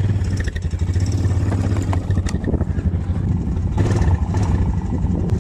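Quad bike (ATV) engine running steadily at idle, a deep even hum.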